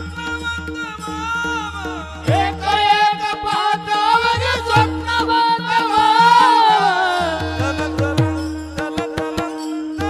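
Marathi devotional gavlan song: a sung melody with ornamented glides over a steady held drone and tabla-like drum strokes that pause briefly near the middle, then resume.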